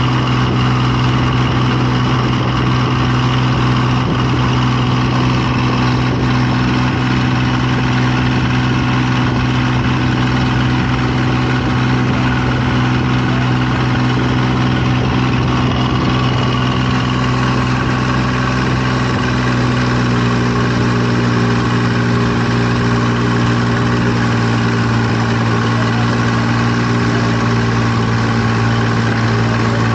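An engine running steadily and loud, with a low even hum; its pitch shifts slightly about twenty seconds in.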